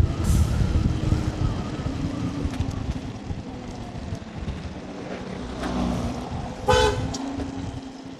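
Wind rumbling on the microphone and road noise from a moving scooter ride, easing off over the seconds. Near the end comes one short vehicle horn toot.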